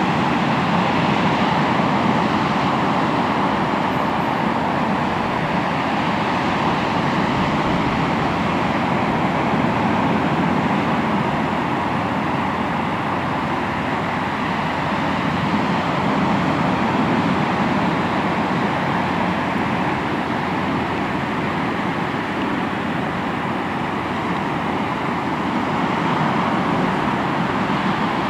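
Sea waves breaking and washing on the shore, a steady surf noise that swells and eases gently over several seconds.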